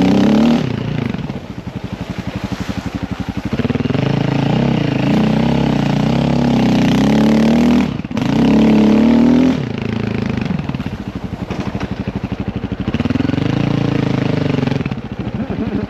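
Dirt bike engine running hard on the trail, with the throttle opened and closed so the revs climb and fall several times. Between the pulls are lower-rev stretches where the single-cylinder firing pulses can be heard.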